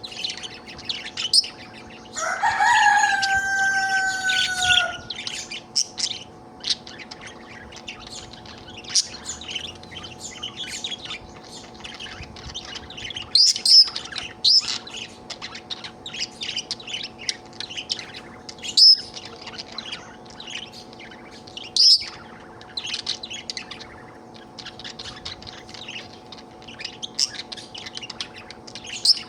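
Budgerigar chattering, with quick chirps and warbles throughout. About two seconds in, a louder drawn-out call lasts about three seconds, falling slightly in pitch.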